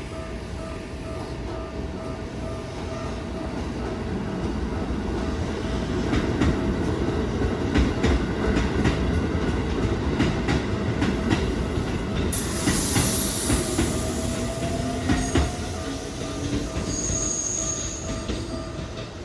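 Keikyu Daishi Line electric commuter train running over a level crossing, its wheels clicking over the rail joints, with a high wheel squeal near the end. The crossing's warning bell rings as a steady tone over the train.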